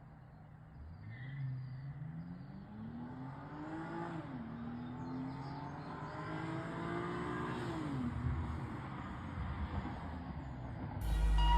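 Car engine accelerating through the gears: the engine note climbs, drops at a shift about four seconds in, climbs again and drops at another shift around eight seconds. Music starts loudly near the end.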